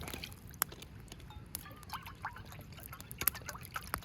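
A pot of thick senbei-jiru soup bubbling and popping as it simmers, with irregular small pops and plopping blips.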